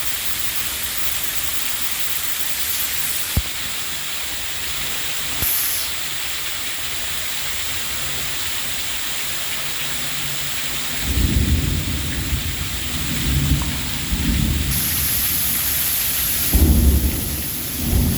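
Torrential rain falling steadily in a downpour. Past the middle, thunder comes in as several low rolling rumbles, the loudest near the end.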